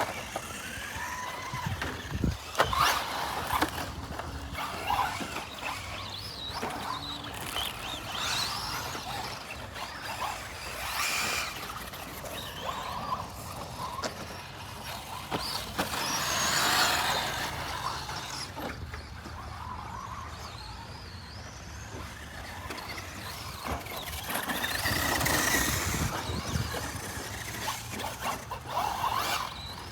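Radio-controlled cars driving around, their motors whining up and down in pitch as they speed up and slow down, with a few sharp knocks and two louder passes, about halfway through and near the end.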